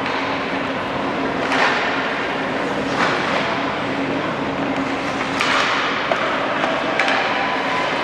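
Ice hockey play in a rink: skates scraping across the ice and sharp clacks of sticks and puck, over a steady background din of the arena. There are several scrapes and hits, with a sharp crack about seven seconds in.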